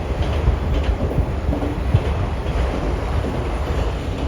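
Freight train cars rolling past, a steady low rumble of steel wheels on rail with faint clicks.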